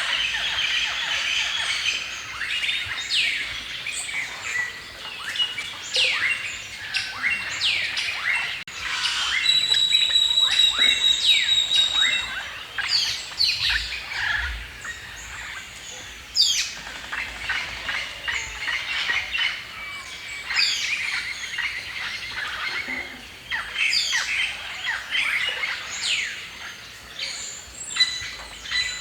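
Several songbirds chirping and singing at once in a forest chorus, with quick whistled notes and trills. A bird holds a steady high whistled note from about nine to twelve seconds in.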